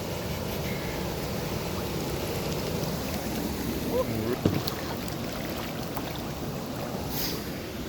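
Steady wind and lake-water noise. A brief voice-like sound comes about four seconds in, followed at once by a sharp knock.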